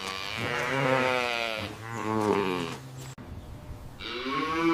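A farm animal calling three times in drawn-out calls with a wavering, quavering pitch: a long call at the start, a shorter one about two seconds in, and another beginning near the end.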